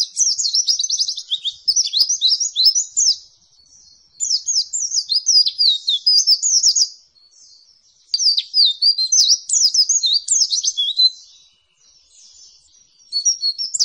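White-eye (pleci) singing in rapid 'nembak' bursts: fast strings of sharp, high chirps in phrases of about three seconds, separated by short pauses.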